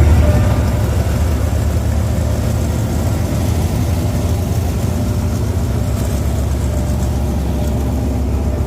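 Hitachi diesel-electric locomotive's diesel engine idling with a deep, steady hum. A loose body cover rattles and flaps against the engine's vibration at idle.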